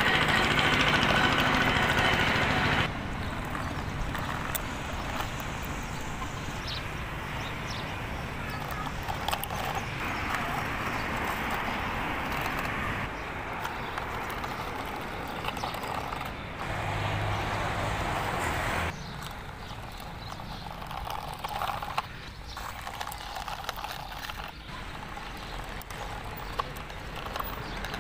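Vehicle engine sounds that change abruptly every few seconds, loudest for the first three seconds.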